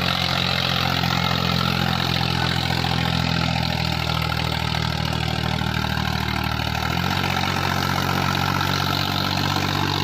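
Tractor diesel engine running steadily, its note shifting about seven seconds in.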